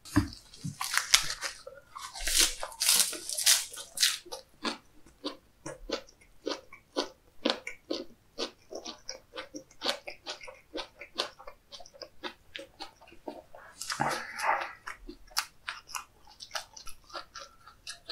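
Close-miked mouthful of a lettuce wrap with seafood: a crisp crunch of leaves at the first bites, then steady wet chewing at about two chews a second, with another short burst of crunching about two-thirds of the way through.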